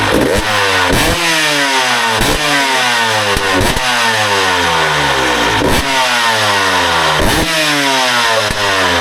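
Two-stroke Husqvarna 300 dirt bike engine through a short Pro Circuit R304 silencer, blipped repeatedly: each stab of throttle sends the revs up sharply, then they fall back toward idle, about every one to two seconds.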